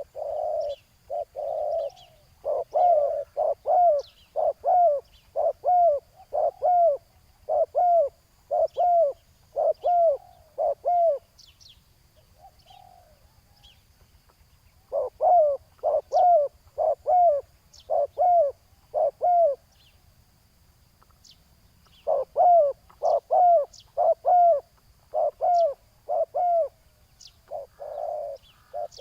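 Spotted doves cooing: three bouts of evenly spaced coo notes, each bout several seconds long, with a few seconds' pause between bouts and softer notes near the end. Faint high chirps sound in the background.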